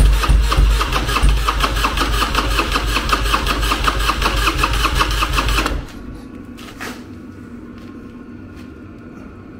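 Harley-Davidson Electra Glide Classic's air-cooled V-twin being started, a fast even mechanical rhythm for about six seconds that cuts off suddenly.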